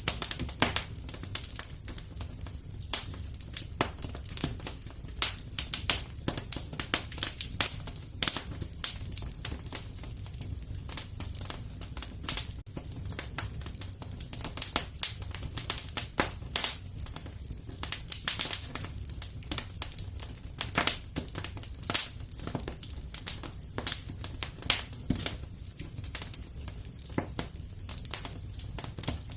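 Wood fire crackling in a fireplace: a steady stream of sharp pops and snaps over a low, even rumble of the flames.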